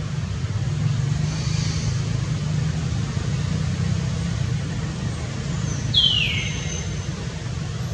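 Steady low rumble of passing road traffic, with a single short high-pitched squeal falling in pitch about six seconds in.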